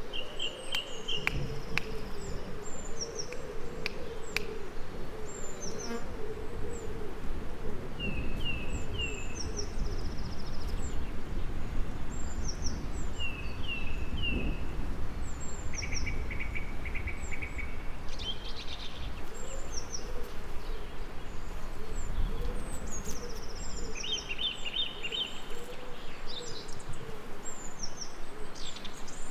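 Several songbirds singing and calling in short high phrases over a bee's wavering buzz, with a low rumble underneath for most of it.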